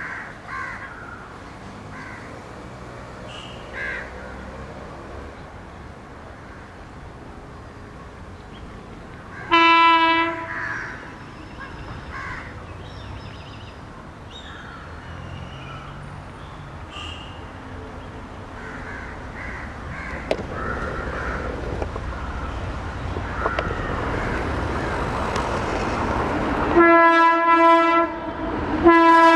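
Locomotive horn blows once briefly about ten seconds in. A train's rumble then builds steadily as it approaches, and the horn blows twice more, loudly, near the end. Crows call faintly at the start.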